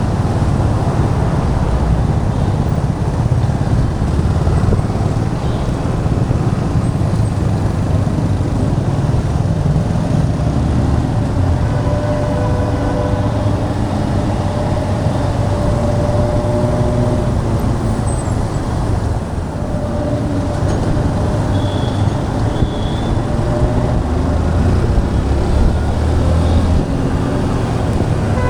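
Motorcycle riding through city traffic: steady engine, tyre and wind noise, with other vehicles' horns sounding briefly a few times in the second half.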